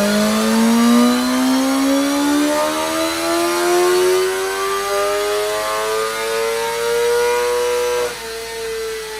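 BMW M1000R inline-four sport-bike engine revving up under load in one long, smooth climb, its exhaust note rising steadily in pitch for about eight seconds, typical of a full-throttle dyno pull. Near the end the pitch dips slightly and the sound eases before cutting off suddenly.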